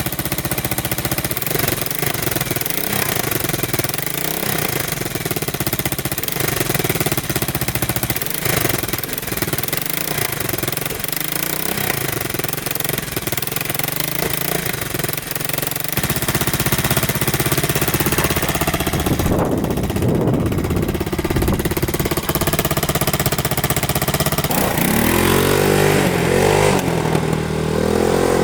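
1985 Yamaha 225DX three-wheeler's single-cylinder four-stroke engine running just after its first start following a rebuild, sounding pretty good. It gets louder and higher about halfway through, then revs up and down repeatedly near the end.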